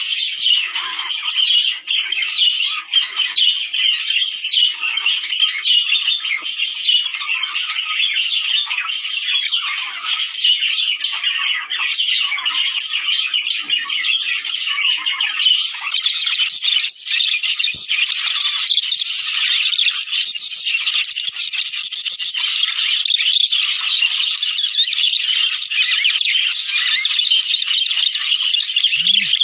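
A flock of budgerigars chattering and warbling together, a dense, continuous stream of rapid chirps and squawks: the breeding-stimulation call used to encourage budgies to mate.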